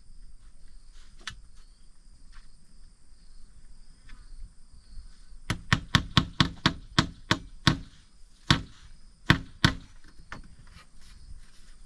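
Chopping strikes on wood or bamboo: a fast run of about ten blows at four to five a second, then three slower, heavier ones.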